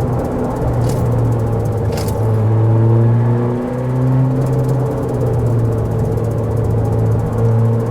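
Car driving, with a steady engine and road rumble under background music of held bass notes. There are two short knocks about one and two seconds in.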